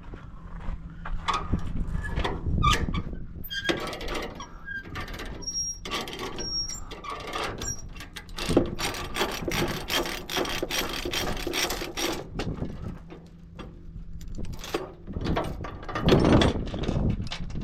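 Metal clanking and rattling of tie-down chains and ratchet binders being undone, many irregular knocks and clinks with short metallic rings, over a steady idling engine.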